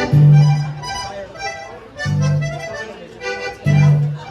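Accordion playing a tune, with low bass notes sounding about three times, roughly a second and a half apart, under the reedy treble melody; the playing stops near the end.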